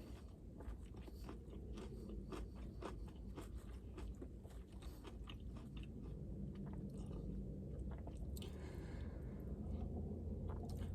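A person chewing a bite of crispy fried chicken slider close to the microphone: faint, irregular crunching and chewing throughout.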